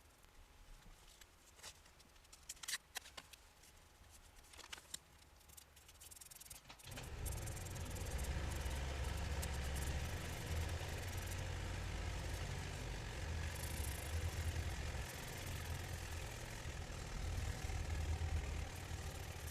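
A few scattered light clicks and knocks, then about seven seconds in an engine starts running at a steady idle with a deep low hum and a slight rattle.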